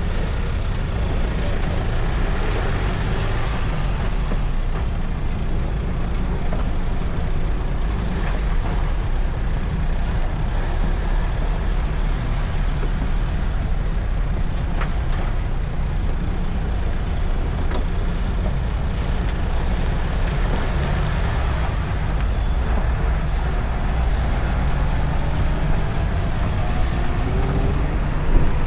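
Street traffic noise heard from a moving electric motorcycle in city traffic, with a heavy, steady low rumble of wind on the microphone. A faint rising whine comes in near the end.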